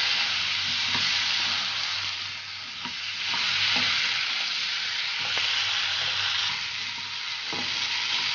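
Cubed potatoes sizzling in hot oil in a nonstick frying pan while a spatula stirs and turns them, with a few light taps and scrapes of the spatula against the pan.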